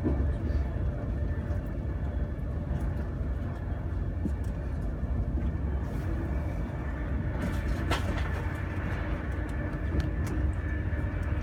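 A Class 390 Pendolino electric train running, heard from inside the carriage: a steady low rumble of wheels on rails, with one brief sharp click about eight seconds in.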